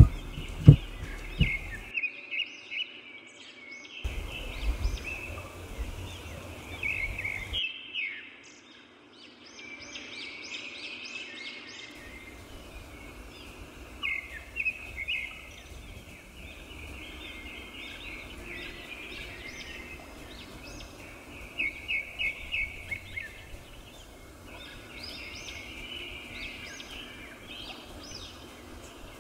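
Birds chirping and singing outdoors, with several quick runs of repeated notes. A few sharp knocks sound about a second in.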